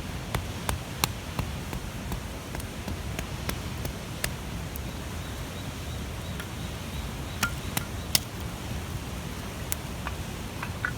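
Large wood bonfire burning: a steady low rumble of flames with irregular sharp crackles and pops from the wood, a dozen or so scattered through, the loudest about eight seconds in.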